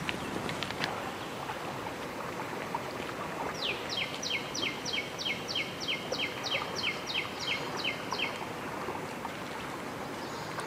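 A bird calls a quick, even series of about fifteen sharp notes, roughly three a second, starting a few seconds in and lasting about five seconds. Underneath is a steady wash of pond water stirred by a man wading through it.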